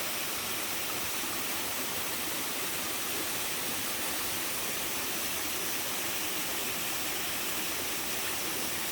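Waterfall, its water falling steadily in a constant rushing hiss.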